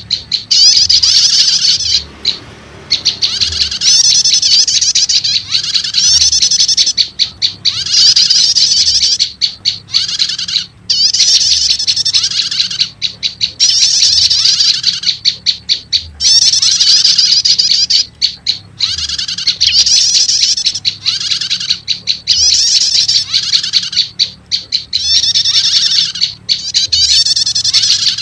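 Looped recording of olive-backed tailorbird calls used as a bird-trapping lure. Rapid high-pitched trills come in repeated bursts of one to two seconds, with short breaks between them.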